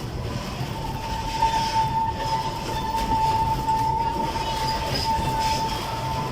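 Narrow-gauge train running with a low rumble, and a single steady high-pitched wheel squeal that sets in just after the start and strengthens about a second in.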